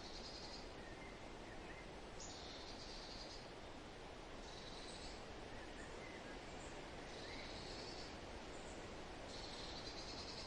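A songbird repeating a short high trill about every two seconds, with a few faint chirps from other birds, over a steady hiss of wind through the forest.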